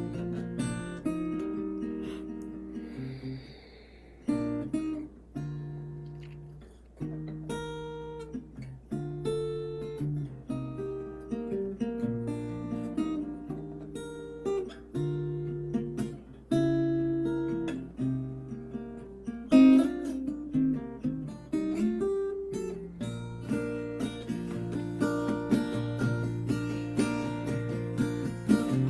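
Acoustic guitar playing an instrumental melody: single plucked notes that ring and fade, mixed with strums.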